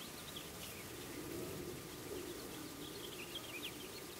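Faint outdoor ambience with soft, short bird chirps scattered through it, over a low steady murmur.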